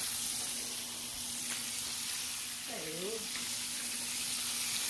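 Fish and shrimp frying in hot oil in a stainless steel skillet: a steady sizzle.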